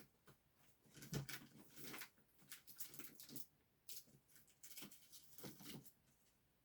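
Faint, irregular rustles, clicks and light taps of hands rummaging through craft supplies on a desk, with a soft knock about a second in.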